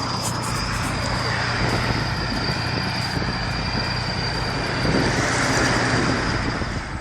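A heavy vehicle's engine running steadily, with a low hum and a thin high whine.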